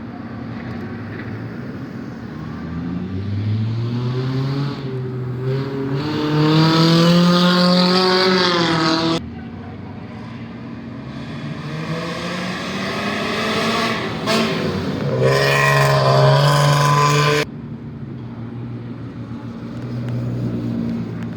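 Car engine revved up twice, each time climbing in pitch for several seconds and then dropping away suddenly, over a steady idle.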